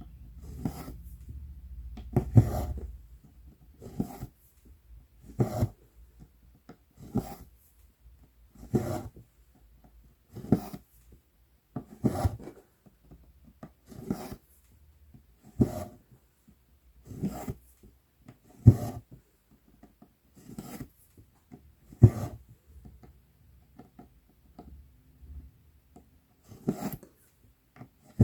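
Embroidery floss being drawn through 11-count Aida cloth stitch after stitch: a short rasping pull about once a second, with a few-second pause near the end.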